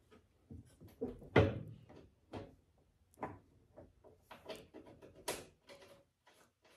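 Irregular clunks and clicks of a plastic headlight housing being handled and seated back into a car's front end while its mounting bolt is started, the loudest knock about a second and a half in.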